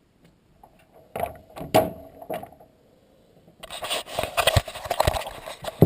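Several separate knocks about a second in, then from just past halfway a dense run of scraping and clattering, like tools or metal parts being handled.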